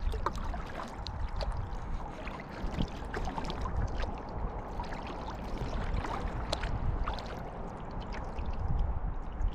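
Water around a kayak: steady lapping and trickling with many small splashes and drips.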